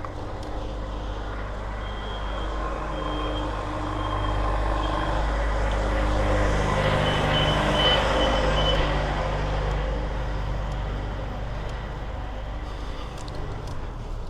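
A heavy motor vehicle passing close, its engine growing louder toward the middle and then fading. A high electronic beep repeats about once a second early on, then comes faster for a couple of seconds around the loudest point.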